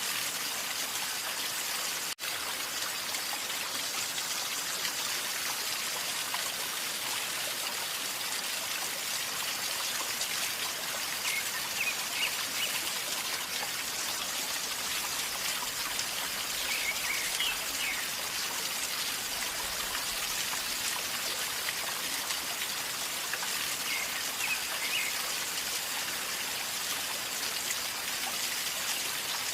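River water flowing and gurgling steadily over stones, an even rushing hiss with a momentary dropout about two seconds in.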